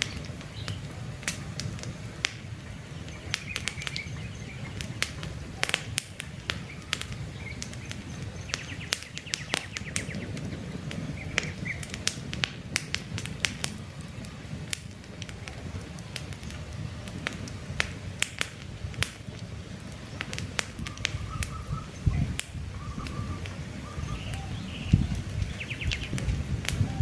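Wood campfire crackling with frequent sharp pops over a low steady rumble of the flames, while birds chirp now and then, more often near the end.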